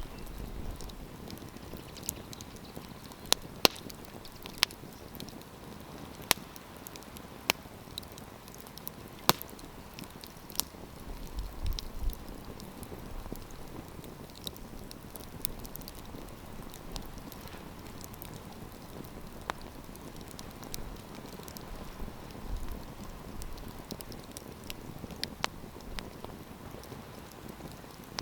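Wood campfire crackling: irregular sharp pops and snaps over a soft steady hiss and rustle of the flames.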